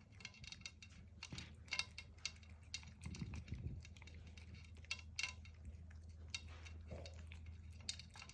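A cat eating wet food mixed with pumpkin from a dish: irregular small clicks and smacks of chewing and licking, over a low steady hum.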